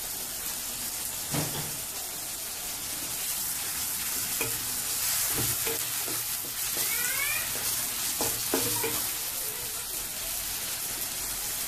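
Sliced onions, garlic and slit green chillies sizzling in hot oil in a pan, stirred with a wooden spatula, with a few knocks of the spatula against the pan.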